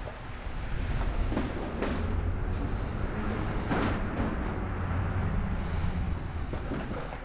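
Steady low rumble of wind on the microphone and tyres rolling on the trail while riding an e-bike, with a few brief knocks from bumps.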